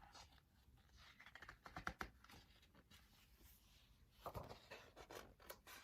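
Near silence, with faint paper rustling and a few soft clicks as a picture book's pages are handled and turned.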